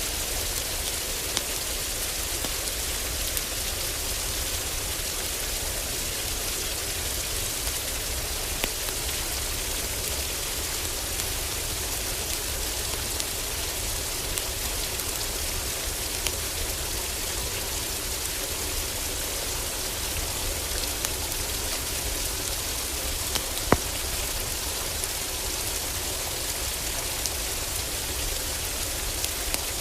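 Steady heavy rain on a roof, with scattered sharp crackles and pops from a wood fire in a fireplace, one louder pop about two-thirds of the way through.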